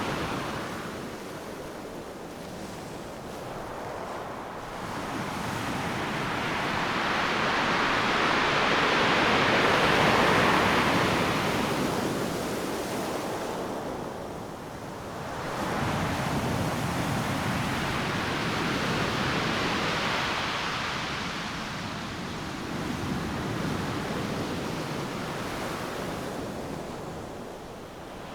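Ocean surf breaking on a beach: a continuous roar of waves that swells and ebbs, with one wave crashing loudest around the middle and another surge following a few seconds later.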